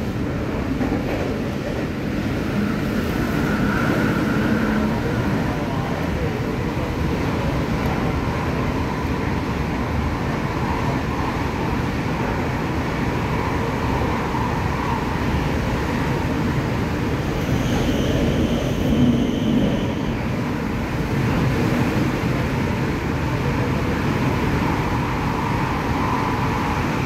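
Cabin noise of an MTR K-Train electric multiple unit running on the Tung Chung Line: a steady rumble of wheels on track with a faint motor hum. A brief high whine comes in about 18 seconds in.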